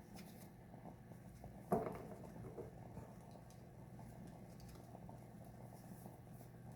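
Faint handling of tarot cards, with one soft tap of a card being laid down about two seconds in, over a low steady hum.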